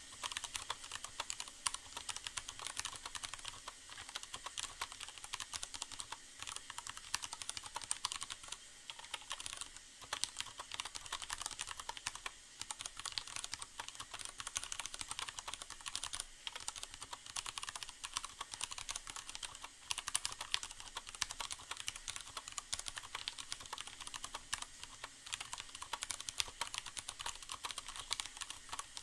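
Steady, fast typing on a Leopold FC750R mechanical keyboard with Cherry MX Brown switches and a sound-absorbing pad inside the case: a dense, irregular run of key clicks. A steady hiss of rain runs underneath.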